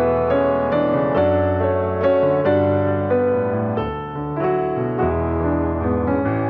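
Slow, gentle piano music: a melody of single notes over sustained low bass notes that change every second or two.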